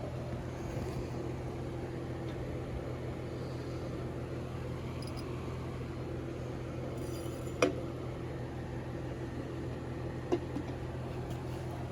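A steady low electrical hum with a faint hiss, broken by two sharp clinks, the first the louder, about two-thirds of the way through and again near the end.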